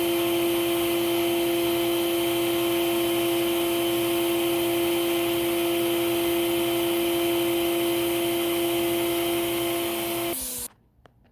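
Hoover Celebrity Quiet Series vacuum cleaner motor running steadily with a constant whine, then switched off about ten seconds in, the sound dying away quickly, followed by a couple of faint clicks.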